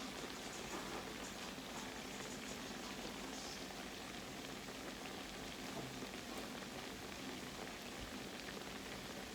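Croquettes frying in hot oil in a pan: a steady sizzle.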